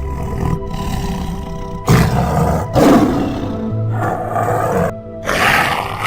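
Big cat roaring several times over background music.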